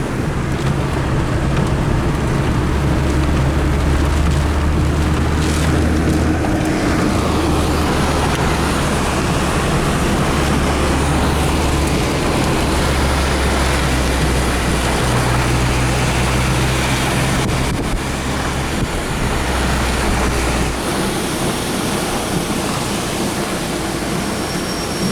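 Car interior noise while driving: a steady low engine and road drone under broad rushing wind and road noise. The low drone drops away near the end, as if the car slows.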